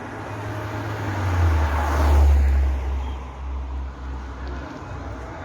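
A motor vehicle passing close by on the road, its low engine rumble swelling to its loudest about two seconds in and dying away over the next couple of seconds.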